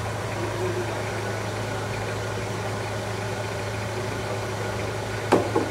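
A car engine idling steadily, with one short knock a little past five seconds in.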